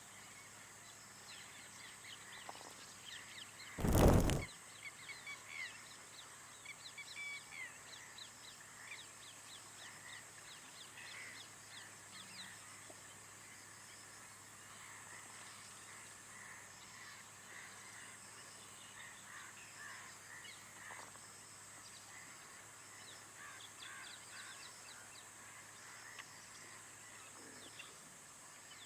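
Outdoor birdsong: many small birds chirping over a steady high-pitched hiss. One loud thump comes about four seconds in.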